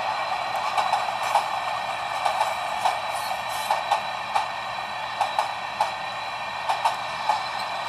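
Long freight train rolling past: a steady rail roar with irregular sharp clicks and clanks from the wheels.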